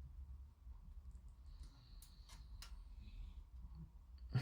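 Quiet bench work on a plastic model kit: a couple of faint, light clicks about two seconds in, then a single sharp thump near the end, like a part or tool set down on the bench.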